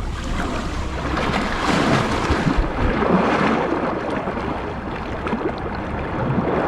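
Lake water sloshing and splashing in small waves, with wind buffeting the microphone.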